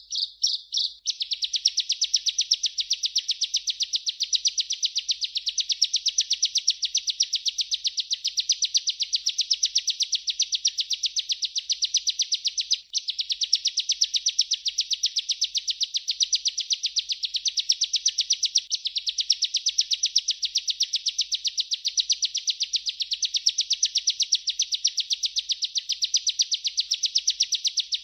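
Bar-winged prinia (ciblek) singing a long rolling song of rapid, evenly repeated high chirps, broken only once briefly about 13 seconds in.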